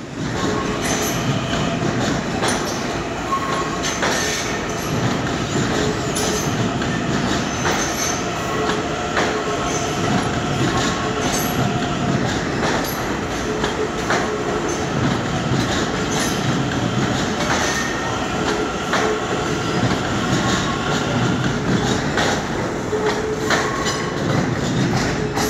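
LIRR M9 electric railcars rolling slowly over the station tracks, their wheels squealing in several high tones that come and go, with irregular clicks as the wheels pass over rail joints and switches.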